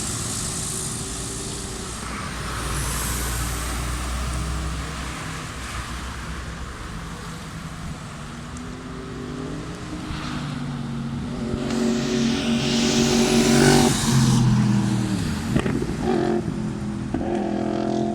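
2015 Yamaha R1's inline-four sport-bike engine revving as the bike rides past. It builds to its loudest about two-thirds of the way through, then the pitch drops.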